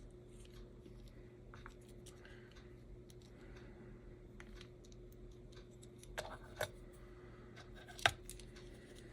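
Faint, scattered small clicks and taps of tiny slot car parts being handled on a workbench, the loudest about eight seconds in, over a low steady hum.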